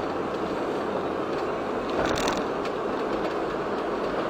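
Steady road and engine noise of a moving car heard inside its cabin, with a short hissing burst about two seconds in.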